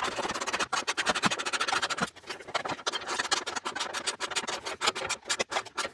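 Ratchet wrench clicking in rapid, uneven runs as a bolt on a ground wire is tightened.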